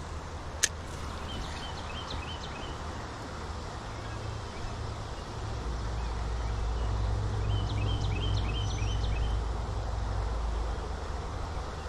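Creek water running steadily, with a songbird singing two short series of quick high chirps. A single sharp click comes just after the start, and a low rumble swells up through the middle and fades again.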